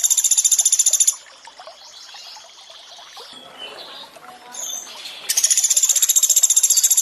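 Common flameback woodpecker (pelatuk beras) giving a loud, rapid, high trill of fast repeated notes twice: one ends about a second in, and the next starts a little after five seconds. Faint running water underneath.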